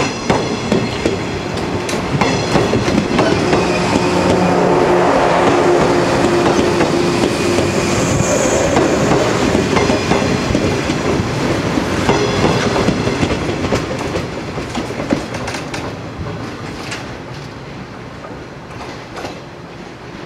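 Yellow electric multiple-unit train passing close by, wheels clattering over the rail joints with a steady humming tone under the rattle. The noise swells as the cars go past and fades as the train pulls away near the end.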